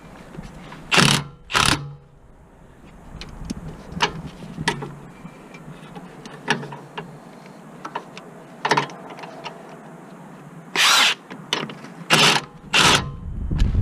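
Mechanic's tool work: scattered light metallic clicks and knocks, with several short, loud bursts of tool noise, two about a second in and three near the end.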